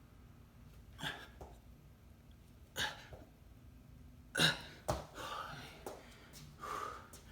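A person breathing hard while exercising: short, forceful exhales every second or two, with a sharp thump about five seconds in.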